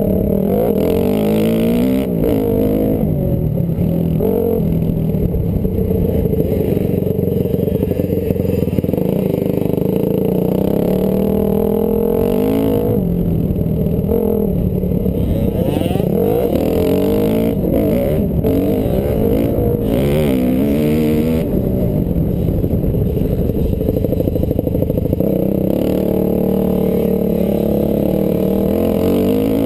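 Honda CRF250R dirt bike's single-cylinder four-stroke engine revving hard at close range, the pitch climbing and falling again and again as the rider opens and rolls off the throttle through the gears.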